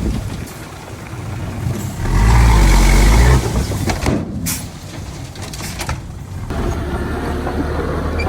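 Heavy earthmoving machinery's diesel engine running, swelling louder for about a second and a half around two seconds in, then running steadily.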